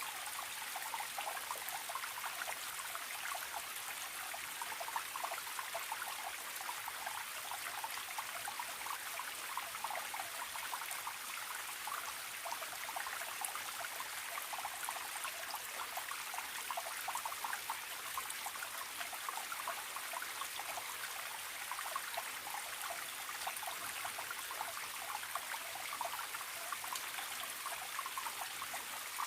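Small forest stream trickling steadily over stones, with many small gurgles and splashes.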